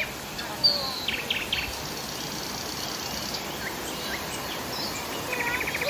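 Tropical forest ambience: birds chirping and giving short falling whistles, with brief rapid insect trills, over a steady background hiss.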